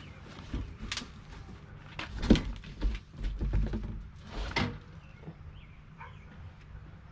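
Knocks and thumps of pressure-washer parts and packaging being handled, the loudest a little over two seconds in and another near four and a half seconds, with a low rumble between them.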